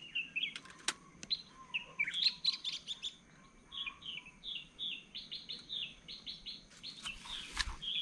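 Wild birds chirping and calling, with a quick, even run of short falling notes, several a second, through the middle.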